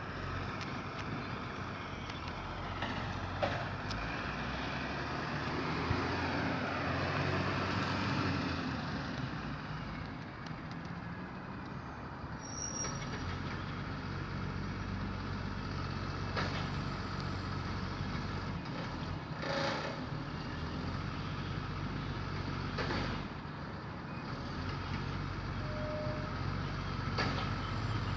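Garbage truck running, its engine a steady drone, with a falling whine a few seconds in and several short sharp noises spread through.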